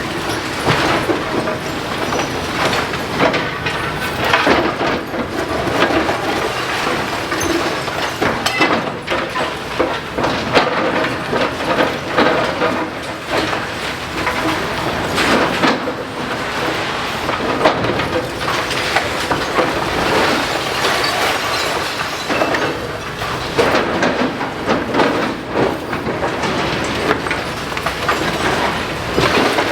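Demolition excavator at work: a steady mechanical din with many crunches and clanks of breaking masonry and metal.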